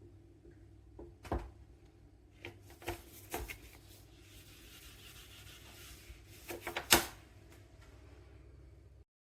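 Handling noises: several sharp knocks and clicks, the loudest near the end, with a soft scraping hiss in the middle. The sound cuts off abruptly just before the end.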